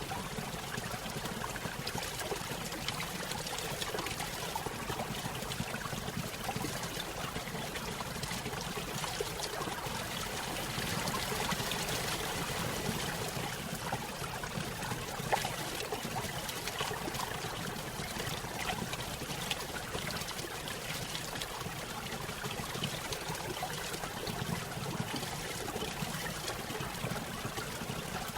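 Small stream splashing down a little waterfall: a steady, continuous trickle and splash of running water.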